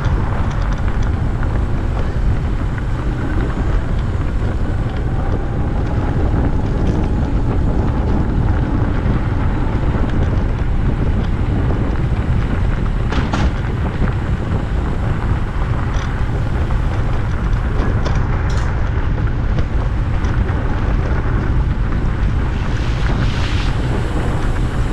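Wind buffeting the microphone of a camera on a moving bicycle: a steady, loud, low rumble, with a couple of faint clicks.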